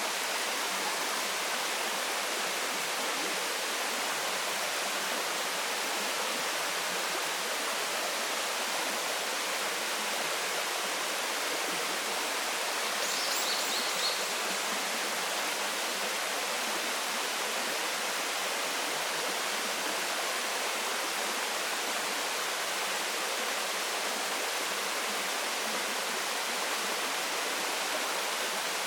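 Waterfall: steady rushing of falling water. A brief faint high chirp comes about halfway through.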